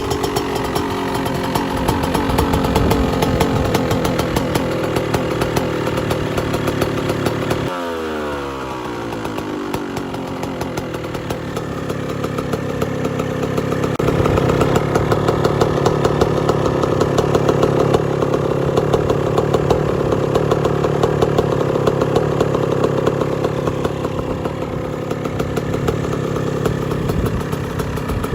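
Yamaha YZ125's single-cylinder two-stroke engine, fitted with an aftermarket exhaust, running and revving. The revs fall away about eight seconds in, then climb again and hold high for the rest of the stretch.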